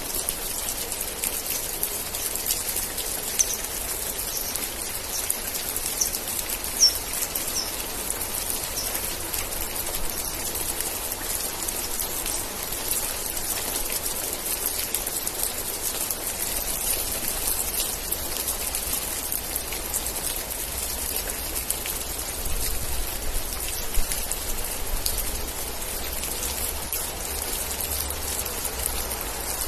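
Steady rain falling, a dense hiss of many drops, with a few louder single drops standing out about 3, 7 and 24 seconds in. A faint low rumble sits under it in the second half.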